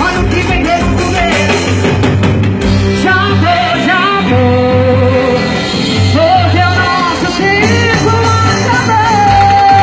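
Live band music with a sung vocal line over a pulsing bass beat.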